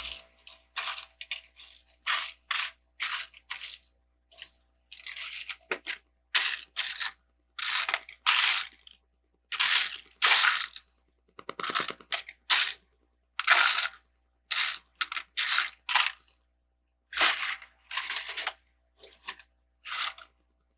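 Loose Lego pieces being sifted and rattled by hand in a plastic sorting tub: a string of short clattering rustles with brief pauses, and a quick rattle about halfway through.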